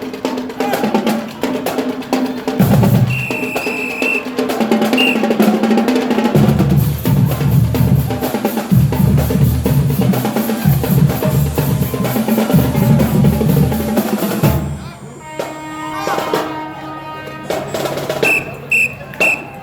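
Marching band playing, led by its drumline of snare and bass drums, until it stops about fifteen seconds in; after that it is quieter, with a few short high tones near the end.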